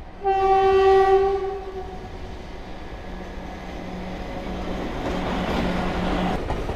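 A single train horn blast, loud for about a second and fading out, from the approaching Vande Bharat Express. After it, the rumble of the oncoming train grows steadily louder.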